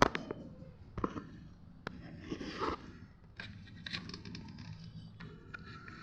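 Hands handling the dishwasher and its load: a sharp knock at the start, a few light clicks, a brief scraping rustle partway through, then a run of small clicks.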